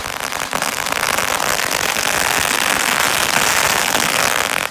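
A firework going off with a dense, continuous crackling hiss that cuts off abruptly near the end.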